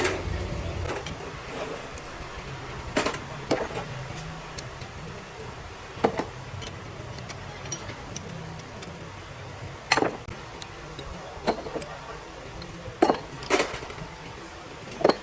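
Metal tools and engine parts clinking and knocking against each other, about nine separate sharp clinks at irregular intervals, over a low steady hum.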